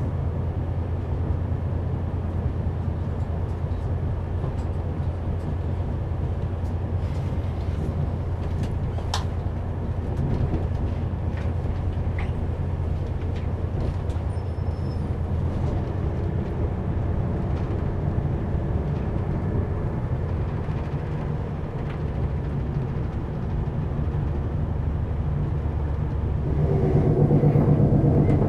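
Steady rumble of a passenger train running along the track, heard from inside the carriage, with a few faint clicks. About two seconds before the end it steps up to a louder rumble.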